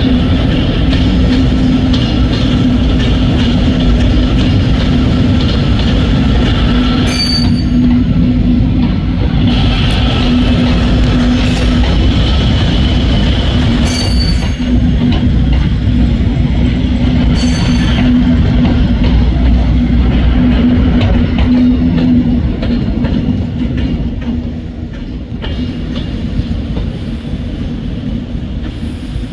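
Electric passenger train pulling out of the station over the pointwork: a steady low hum with rumbling wheel noise, which drops away after about twenty-two seconds as the train recedes.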